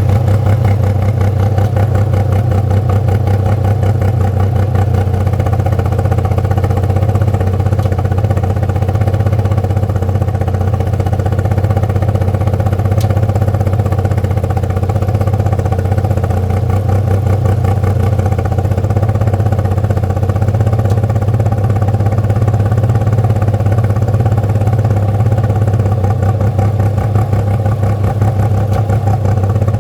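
Toyota 3MZ-FE V6 engine in an MR2 running steadily at a constant speed, with a fast even pulsing and a strong low hum, the weird noises it is being recorded for.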